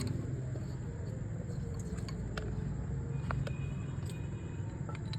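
Motorcycle engine idling steadily, with a few sharp clicks over it.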